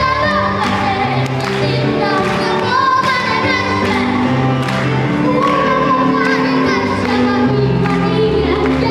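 Children's choir singing a Christmas carol over instrumental accompaniment with a steady beat.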